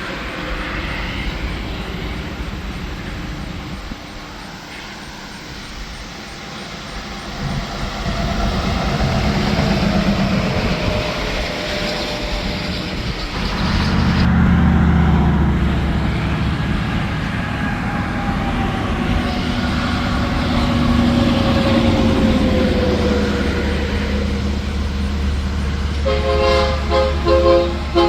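Heavy trucks and traffic passing on an interstate highway, engine and tyre noise swelling and falling as each vehicle goes by, with engine notes gliding down in pitch. Near the end a semi-truck's air horn sounds in a series of short blasts.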